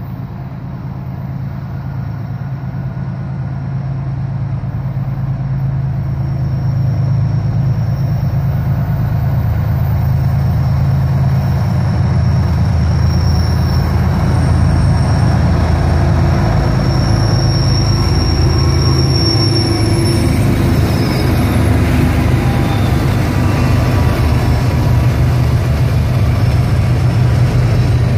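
CSX diesel-hauled freight train approaching and passing: the deep engine rumble of the lead locomotives grows steadily louder over the first several seconds, then the heavy rumble of the locomotives and rolling freight cars holds. A thin high whine is heard for a stretch in the middle.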